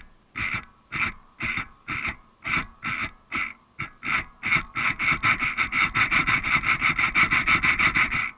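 Rhythmic rubbing or scraping strokes, about two a second at first and then speeding up to about five a second, stopping suddenly.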